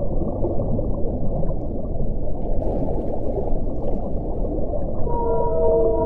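Wind blowing in a steady low rush; about five seconds in, a faint whistling tone joins it.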